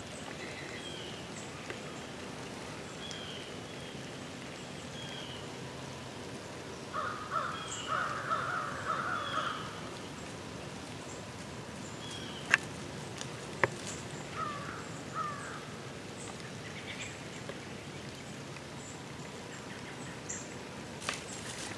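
Birds calling in the woods. A burst of harsh cawing-type calls lasts a couple of seconds about a third of the way in, and a few more follow a little after the middle, with short high chirps scattered throughout. Two sharp clicks a second apart, a little past the middle, are the loudest sounds.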